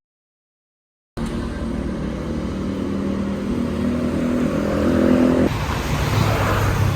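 A motor vehicle's engine running steadily. About five and a half seconds in the sound changes to a lower, rougher hum.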